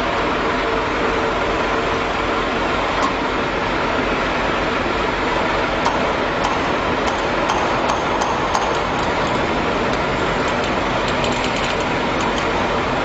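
Steady machinery noise with several short, sharp clicks in the second half.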